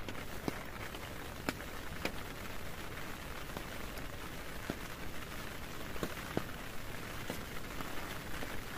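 Heavy rain falling on a tent: a steady hiss broken by sharp taps of single heavier drops, about one a second.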